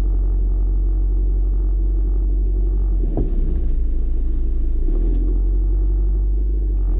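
Steady low rumble of a car driving, from road and engine noise, with a brief light knock about three seconds in.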